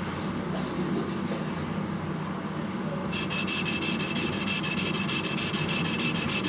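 Yanagiba blade's bevel being ground on a wet whetstone: steel scraping against stone in a steady grinding noise that turns, about three seconds in, into quick even scrubbing strokes, several a second. This is the kiriha being reset, its micro bevel ground off.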